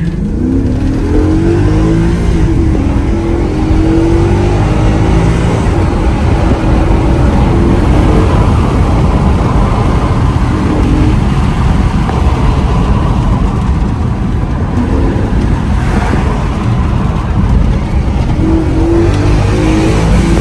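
Volkswagen Touareg's 4.2-litre FSI V8 pulling hard, heard from inside the cabin, its note climbing in pitch and dropping back several times as it accelerates through the gears.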